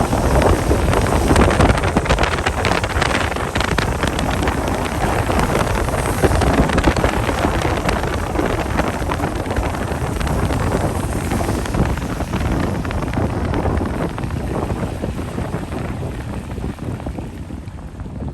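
Heavy rain with wind buffeting the microphone: a dense, steady rush with a strong low rumble, easing off over the last few seconds.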